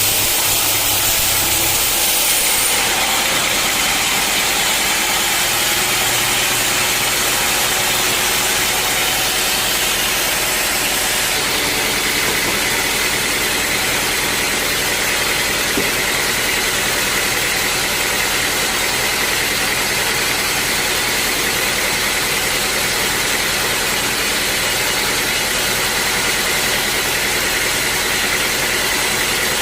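Sawmill saw and its motor running steadily and loudly. The sound changes about two seconds in, and a steady higher whine joins about twelve seconds in.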